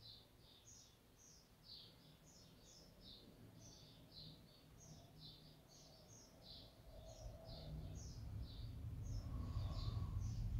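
Small birds chirping faintly, with short high chirps coming a few times a second without pause. A low rumble builds up over the last few seconds.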